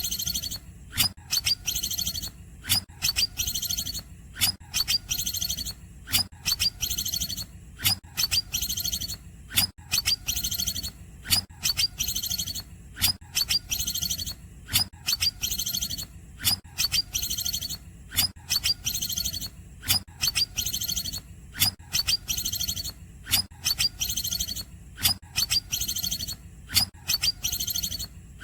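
A green leafbird (cucak ijo) singing fast, high-pitched repeated phrases, about two a second, with sharp clicking note onsets. This is the chopped 'cungkokan' song style used as a training recording for songbirds.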